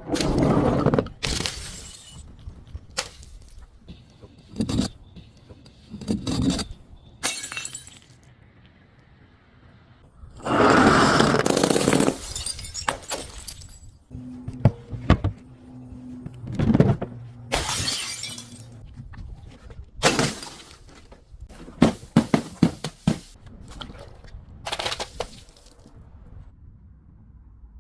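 Glass being smashed and crushed: a string of sudden breaking and shattering crashes, with a longer, louder crash about eleven seconds in.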